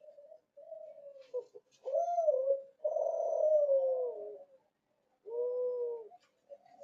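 Derkuku Kelantan dove cooing: three low coo phrases, the middle one the longest and sliding down in pitch at its end, with softer coos before them.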